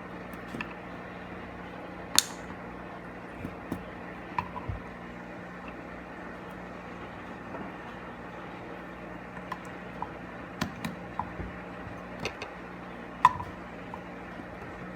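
Scattered light clicks and taps of small tools and parts being handled while working on an air-suspension manual switch. The two sharpest come about two seconds in and near the end, over a steady low hum.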